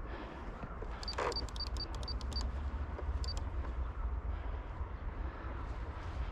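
Steady low wind rumble on the microphone, with a quick run of about eight short, high beeps about a second in and one more beep near the three-second mark.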